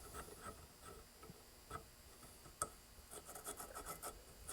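Faint light clicking and scratching, with one sharper click midway and a run of quick small clicks near the end.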